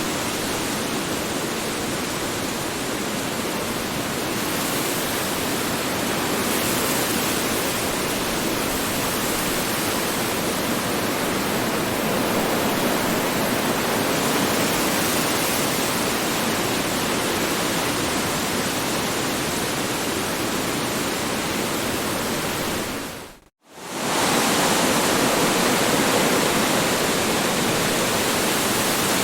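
Strong wind blowing as a steady, dense noise across low and high pitches. About three-quarters of the way in it cuts out to silence for a split second, then resumes as before.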